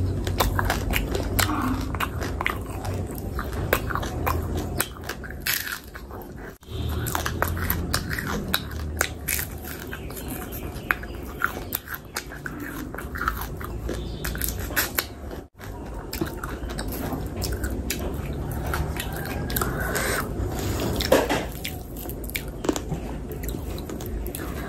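Close-miked chewing and biting of food, with a dense run of small sharp mouth clicks and crunches. The sound breaks off briefly twice.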